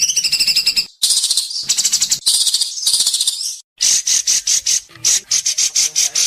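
White-rumped shama singing in loud, high, sharp phrases. From about four seconds in it switches to a fast run of short repeated notes, about five a second.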